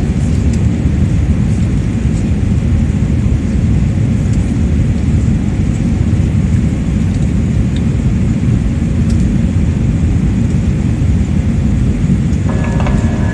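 Airbus A320 cabin noise in the climb: a steady, loud low rumble of the engines and rushing air. A steady hum joins near the end.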